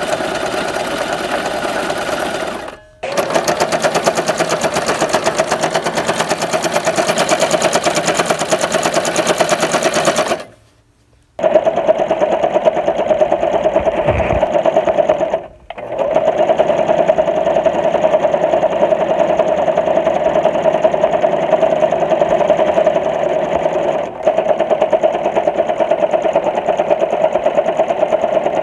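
Sewing machine running at a fast, even stitching rhythm, stopping briefly and starting again several times, with one pause of about a second roughly a third of the way through.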